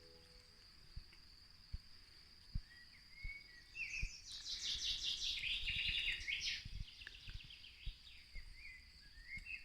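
Forest birdsong: a few short chirps, then a fast, rapid-note trill for a few seconds from about four seconds in, over a steady high-pitched insect-like whine. Soft low thumps of footsteps on the forest path come at irregular intervals.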